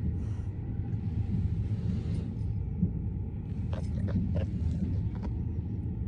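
Steady low rumble of a railway carriage interior while the train is running, with a few light clicks and rattles about four seconds in.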